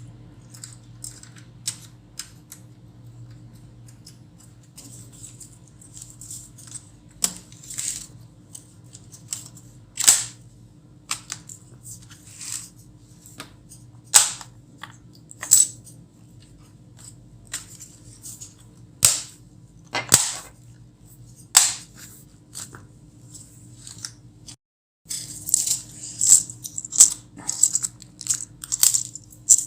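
Irregular sharp clicks, taps and snaps of small hard parts being handled, typical of a laptop's plastic case and parts being worked on by hand, over a steady low electrical hum. The clicks come more densely after a short break near the end.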